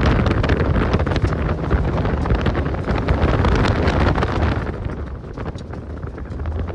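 Heavy wind buffeting on the microphone over the 2013 Scion FR-S's flat-four engine, with a TRD exhaust, running hard during an autocross run. The sound eases off about two seconds from the end.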